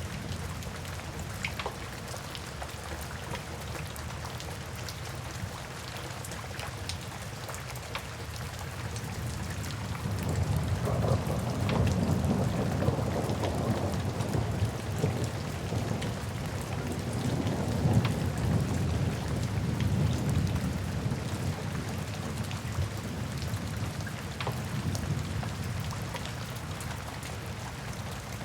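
Steady rain with the scattered crackle of a wood fire, and a long roll of thunder that swells about a third of the way in and dies away about three-quarters through.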